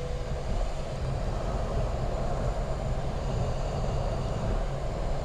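Steady cockpit noise of a Boeing 737 MAX 8 on the ground at taxi power, an even rumble and hiss from the engines and air systems. A faint steady tone stops about half a second in.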